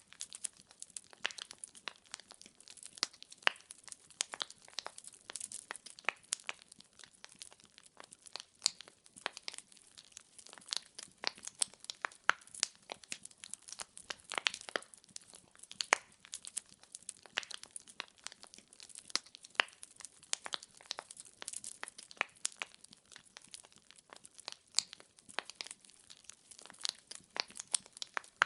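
Firewood burning in a fireplace, crackling steadily with many irregular sharp snaps and pops, a few louder than the rest, over a soft hiss.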